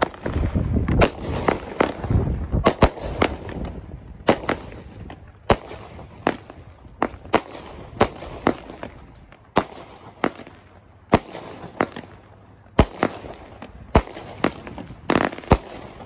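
Consumer aerial firework cake firing shot after shot: a low rumble as the first shots lift, then a long string of sharp bangs as the shells burst, about one to two a second, with a crackle between them.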